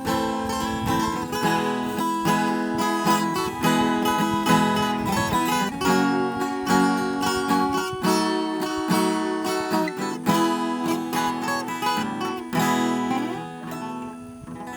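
Viola caipira playing an instrumental passage of quick plucked notes after the sung verses, dying away near the end.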